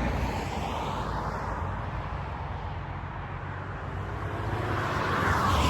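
Road traffic passing by. One vehicle's noise fades in the first seconds, and another swells to its loudest near the end.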